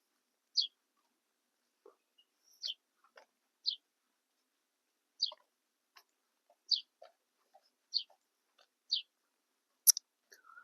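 A small bird chirping: eight short, high chirps, each falling in pitch, about one a second, with faint clicks between them.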